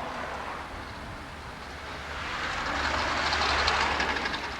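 A passing vehicle: a rushing noise that swells to a peak near the end, with a rattle of fine clicks at its loudest, then begins to fade.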